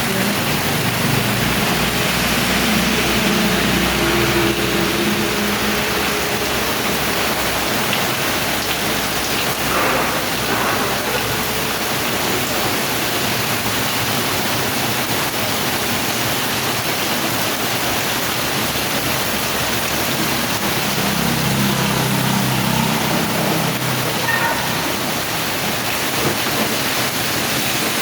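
Heavy rain falling steadily, a dense even hiss, with a faint low drone near the start and again about three quarters of the way through.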